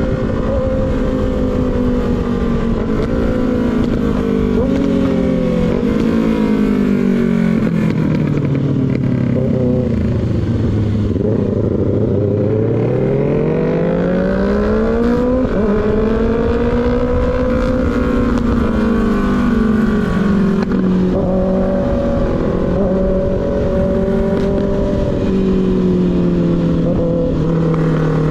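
Motorcycle engine heard onboard while riding. The revs fall for several seconds, stepping through gear changes as it slows, rise again about halfway through as it accelerates, then settle at a steady cruise. Wind rumbles on the microphone throughout.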